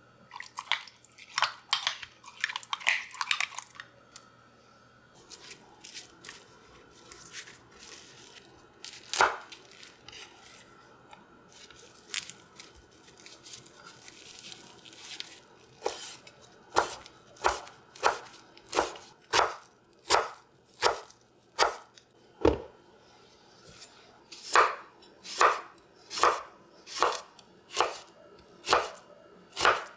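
Knife chopping on a cutting board: scattered strokes at first, settling in the second half into a steady rhythm of a little more than one stroke a second. A few seconds of crackly rustling come first.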